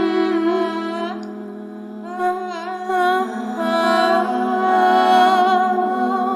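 A voice humming a slow, wordless melody with wavering vibrato, over a steady low drone note.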